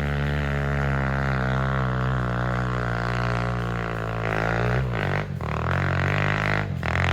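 Single-cylinder pit bike engine running at a steady throttle, a loud drone. Its pitch shifts about two-thirds of the way through, and it briefly drops off twice near the end.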